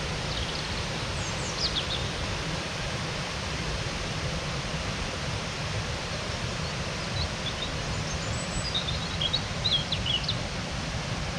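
Small birds chirping in short high phrases, once about a second or two in and again more busily from about seven to ten seconds, over a steady low background hiss.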